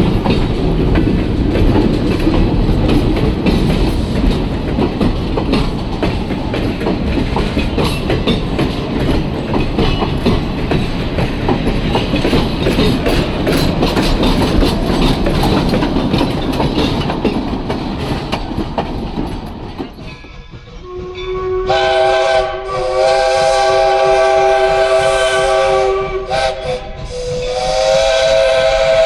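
Wooden passenger coaches rolling past close by, their wheels clicking over the rail joints. Then, after about twenty seconds, the 4-4-0 steam locomotive 'York' blows its chime whistle: a long multi-tone blast, and a second blast starting near the end.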